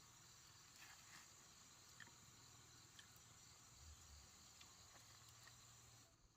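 Faint insect chorus: a steady high chirring with a few light clicks, cutting off suddenly near the end.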